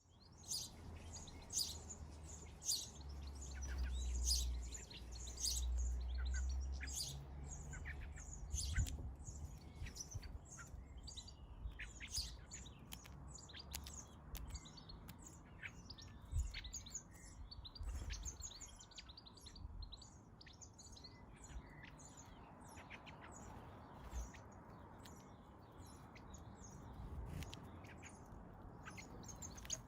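Small garden birds at a feeder chirping in a busy, rapid stream of short calls, among them house sparrows and blackbird fledglings. A low rumble sits underneath for about the first half, loudest around four to six seconds in.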